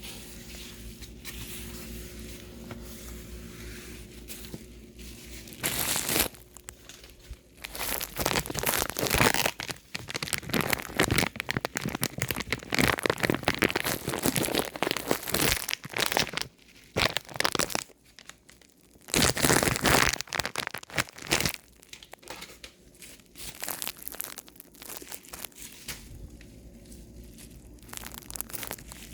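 Crinkly material being crumpled and handled in irregular, dense rustling spells through the middle stretch, over a low steady hum that is heard plainly in the first few seconds.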